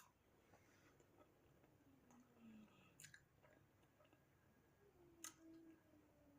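Near silence with faint chewing: soft mouth clicks and smacks from someone eating lasagna, with a couple of faint low hums.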